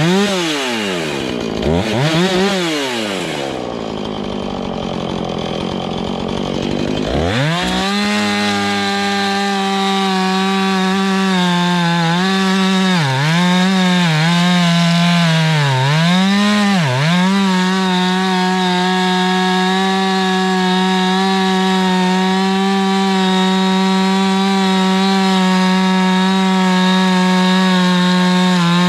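Two-stroke chainsaw revving up and down twice, then held at full throttle from about seven seconds in while cutting a log. Its pitch dips briefly three times near the middle as the chain bites into the wood, then it runs steadily.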